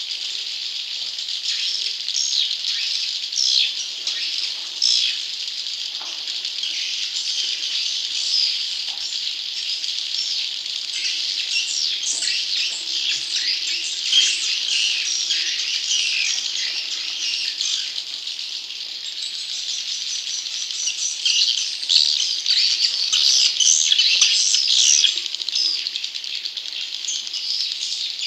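Swiftlet chicks calling: a dense, continuous chatter of high, rapid chirps, swelling somewhat louder near the end. This is the chick-call recording played in swiftlet houses as a lure to draw in wild swiftlets.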